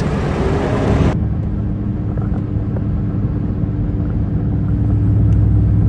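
Steady low rumble of a motor vehicle running, with a faint steady hum over it. The higher hiss drops away about a second in.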